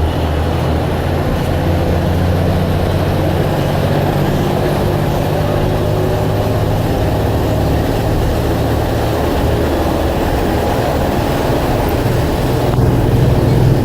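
Blue Bird All American bus running on the road: a steady low engine drone with road noise, easing off about two-thirds of the way through and building again near the end.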